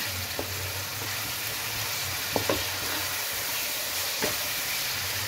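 Chicken, onion and mashed tomatoes sizzling in oil in a wok, stirred with a wooden spatula that knocks against the pan a few times.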